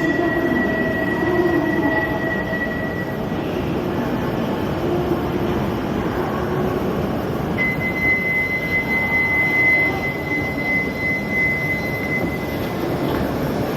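Shinkansen train rail noise, steady, with a thin high whine that drops out about three seconds in and returns near eight seconds.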